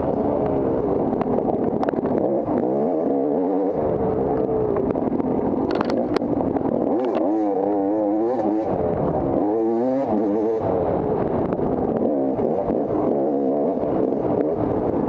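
Off-road motorcycle engine being ridden hard, its revs rising and falling again and again as the throttle is worked. A few sharp clicks about six seconds in.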